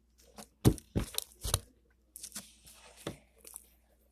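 Slime being squeezed and stretched by hand, with a quick run of sharp wet pops about a second in, then softer crackly squishing.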